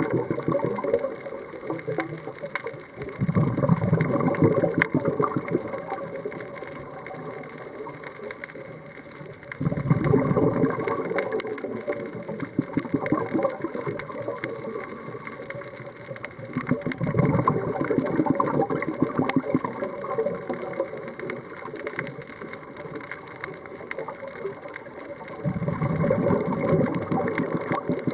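Underwater sound of a scuba diver's regulator: the bubbly rush of each exhalation comes five times, about every seven seconds, over a steady crackle of fine clicks.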